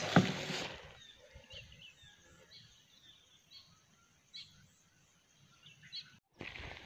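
Faint, scattered chirps of small birds over a quiet outdoor background, after a short louder burst of noise in the first second. Near the end the sound drops out briefly and a louder stretch of outdoor noise begins.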